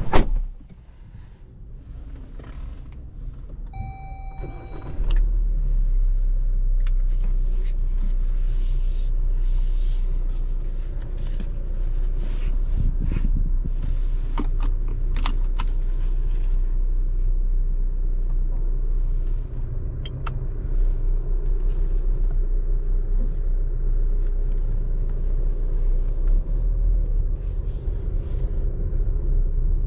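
A sharp knock, then a short electronic chime, then the low steady rumble of a RAM Rampage's 2.2 turbo diesel running from about five seconds in.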